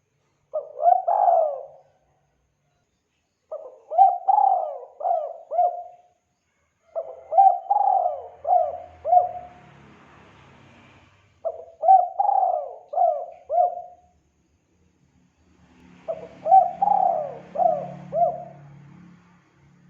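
Spotted dove (tekukur) cooing as a lure call: five phrases, each of about four to five coo notes, repeated every few seconds.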